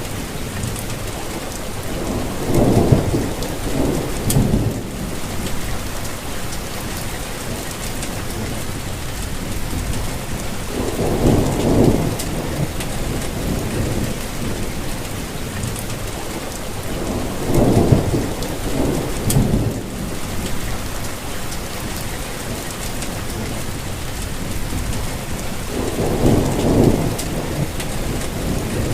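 Steady rainfall with low rolls of thunder, four of them, each swelling and fading over a couple of seconds.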